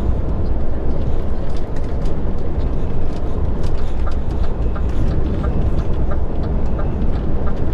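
Steady in-cab rumble of a lorry's engine and road noise while driving. From about halfway through, the indicator ticks regularly, about twice a second, as the lorry signals to change lanes.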